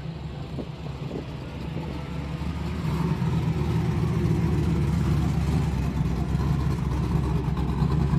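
A vehicle engine running close by with a steady low rumble, growing louder about three seconds in and then holding steady.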